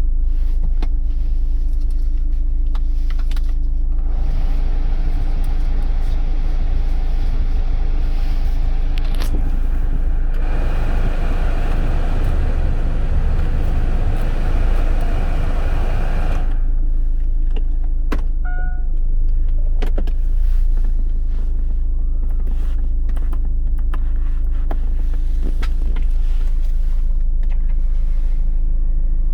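Daewoo Winstorm SUV engine idling steadily with a low hum. For about twelve seconds in the middle a rushing whir rises over it, louder in its second half, and a short beep sounds a little after that.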